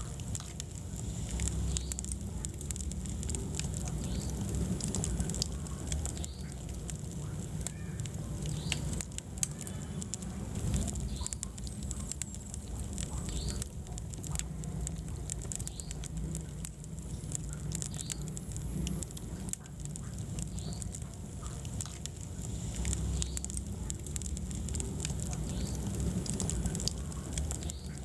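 Wood fire burning in a fireplace, crackling with scattered sharp pops and snaps over a steady low rumble of the flames.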